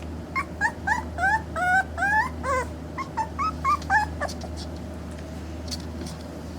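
A 3.5-week-old Pembroke Welsh Corgi puppy whimpering in a quick run of short, high cries that bend up and down, stopping about four seconds in.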